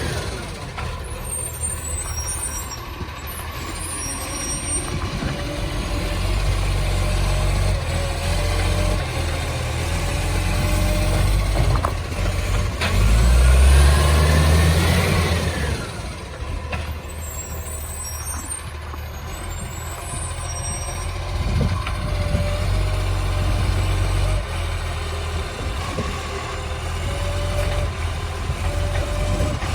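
Diesel engine of a side-loader garbage truck running loudly with a massive exhaust leak. About halfway through, it revs up and back down.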